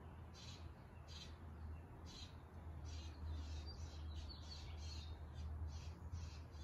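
Faint bird chirping, short high chirps repeating about twice a second, over a steady low hum.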